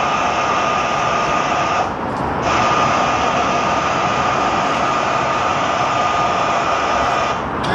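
Jet airliner engines running with a steady loud rush and a thin whine, dipping briefly twice.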